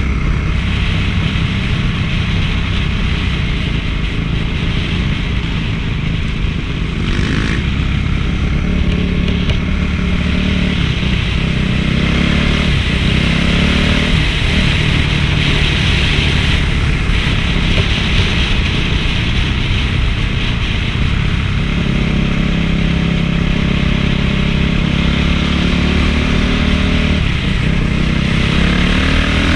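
Honda CRF450 four-stroke single-cylinder motocross bike engine running under way, its revs rising and falling again and again as the throttle is worked.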